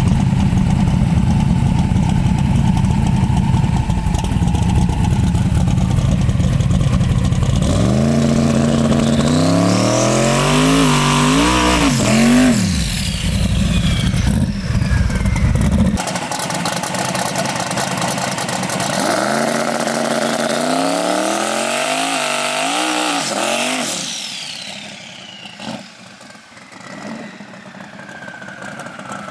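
Twin-turbo big-block Chevrolet V8 running hard twice, its pitch climbing, wavering, then dropping away as it comes off the throttle, after a steady low rumble. The engine is quieter near the end.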